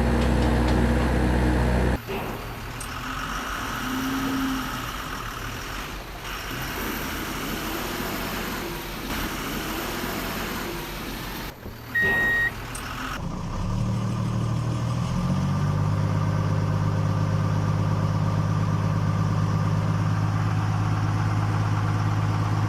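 Vehicle engines running across several abruptly cut clips, with a short high beep about halfway through. Later there is a steady engine hum that drops a step in pitch soon after it begins.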